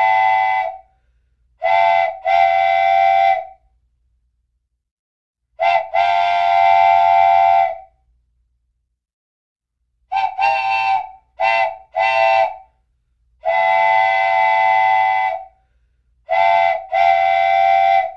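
A loud horn sounding in repeated blasts, short toots followed by longer held ones, with dead silence between them.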